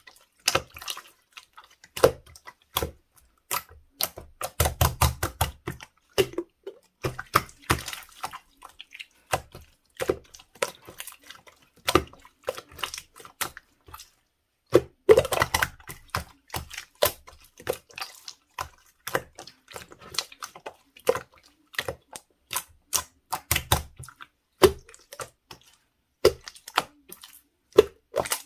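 Slime being squished and pressed by hand, giving a dense, irregular run of sharp clicks and pops, with thicker flurries about five seconds in and again around fifteen seconds.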